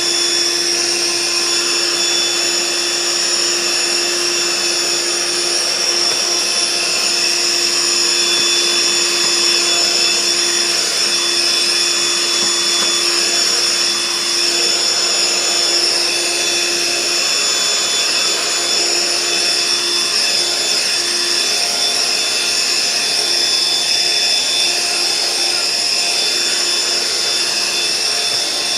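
Eureka The Boss bagless stick vacuum, a suction-only model with no brush roller, running steadily with a high whine from its motor.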